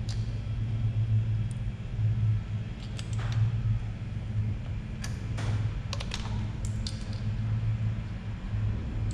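Scattered light clicks and clinks of small metal valvetrain parts being handled during the teardown of a Ford 5.0 Coyote V8, over a steady low hum.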